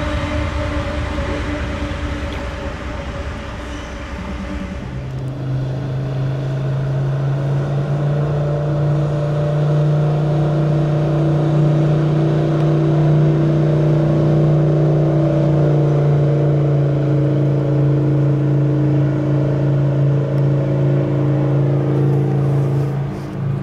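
Freight train passing, its rolling rush dying away about five seconds in. A diesel locomotive engine then runs with a steady, deep drone, wavering near the end.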